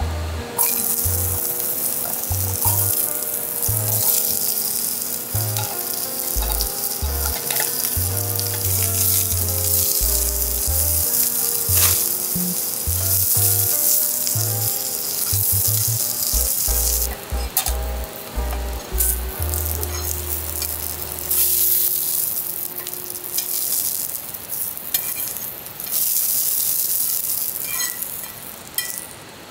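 Food frying in a hot pan, a loud steady sizzle that turns patchy and crackly about halfway through.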